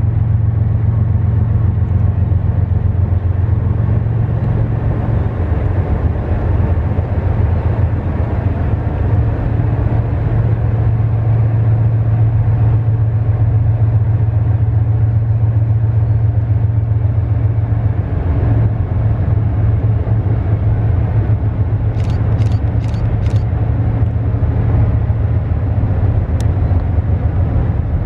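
Freight train rolling past: a loud, steady, low rumble of cars on the rails, with four quick high clicks about three quarters of the way through.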